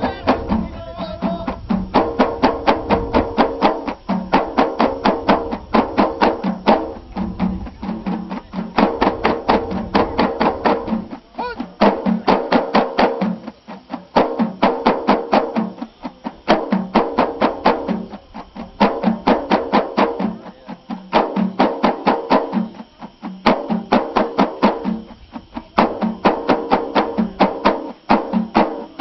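Ahidous performance: a line of voices chanting together over frame drums and handclaps beaten in a fast, even rhythm of about five strokes a second. The beat breaks off briefly every few seconds and starts again.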